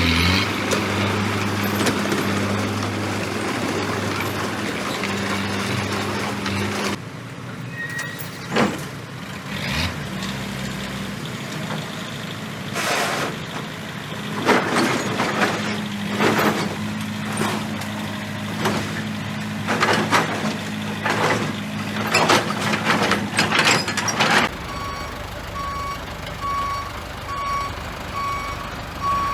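Heavy diesel construction machinery running, with clanks, knocks and hisses in the middle stretch; near the end a backup alarm starts beeping in a steady, evenly spaced series as a machine reverses.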